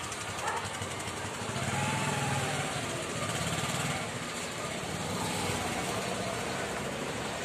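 Road vehicle noise while travelling: an engine running over a steady rush of road noise, with a low rumble that swells from about one and a half to four seconds in.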